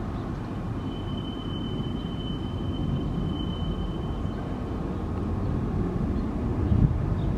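New York City Subway L train running with a steady low rumble. A thin, steady high whine sounds from about one second in to about five seconds in.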